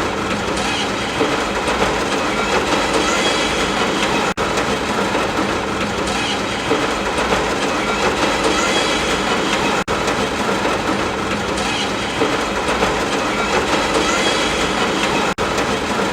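Steady, dense ambient noise with a rumbling, rattling character, as of rain heard inside a moving train, broken by very short dropouts about every five and a half seconds.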